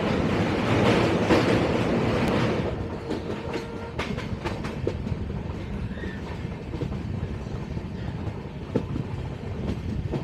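Passenger coach of the Saraighat Express running on the rails: a steady rumble of wheels and track, loud for the first two and a half seconds and then quieter, with scattered sharp clicks and knocks.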